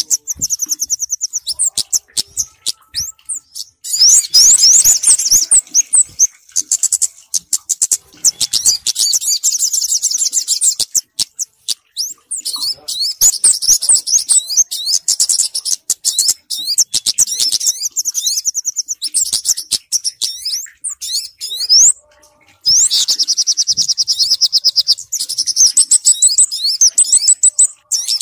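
Bird-lure recording of kemade and sogok ontong (a sunbird) calls combined: rapid high chirps and fast trills in dense, repeated bursts, with a brief pause about three quarters of the way through.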